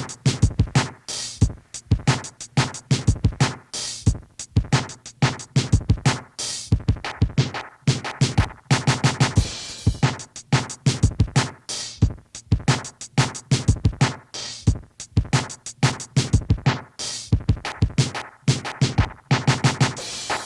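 Instrumental 1980s hip hop beat: a drum machine pattern of sharp, evenly spaced hits with turntable scratching over it.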